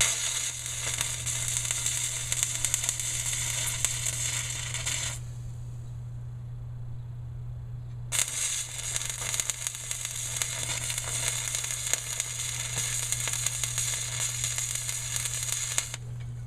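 Arc welder crackling and sizzling in two runs, the first for about five seconds and the second, after a pause of about three seconds, for about eight, as a bead is laid over a leaking weld joint on a Ford 8N tractor's hydraulic pipe. A steady low hum continues under both runs and through the pause.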